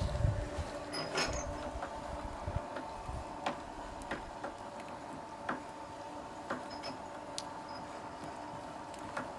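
Homemade electric profile-bending machine running: a steady motor hum with a low rumble in the first few seconds, and sharp clicks from the mechanism about once a second.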